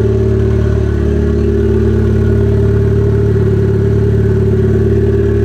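Turbocharged Mazda Miata four-cylinder engine running steadily at an even, unchanging speed.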